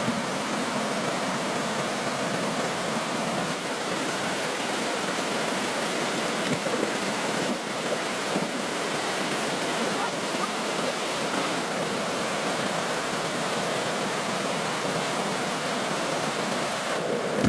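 Steady rushing water, an even noise with no distinct events.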